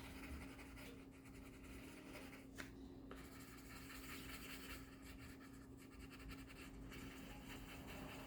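Faint scratching of a colour pencil on paper as an area is shaded in, over a steady low hum, with one small click a little over two seconds in.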